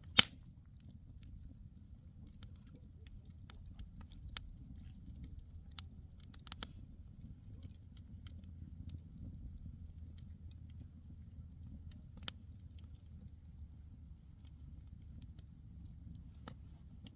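Campfire burning: the wood crackles with scattered sharp pops and snaps over a low, steady rumble of the flames. The loudest pop comes right at the start, and the rest are spaced a second or more apart.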